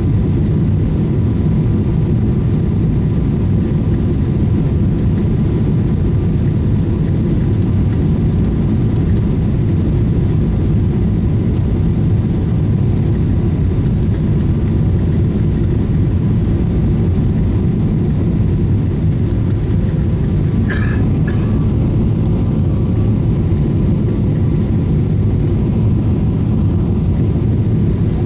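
Steady low rumble of a Boeing 777-300ER's engines and airflow heard inside the passenger cabin, with two short sharp sounds about two-thirds of the way in.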